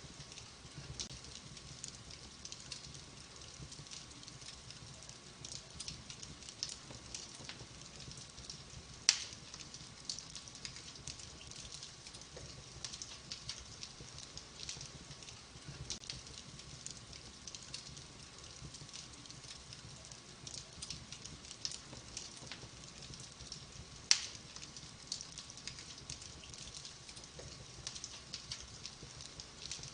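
Wood fire crackling in a fireplace: a steady run of small crackles, with two louder pops, about nine seconds in and about twenty-four seconds in.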